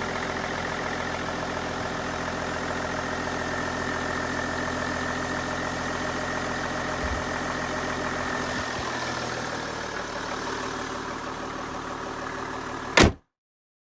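Opel Omega B 2.5 DTI's common-rail inline-six diesel (Y25DT) idling steadily just after starting. About thirteen seconds in there is a sharp click and the sound cuts off abruptly.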